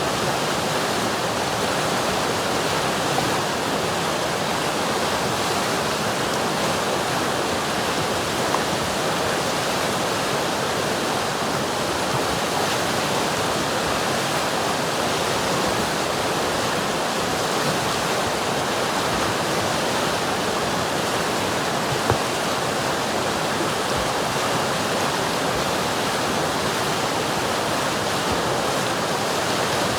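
River water rushing and babbling over rocks in a steady, even wash, with a few faint splashes.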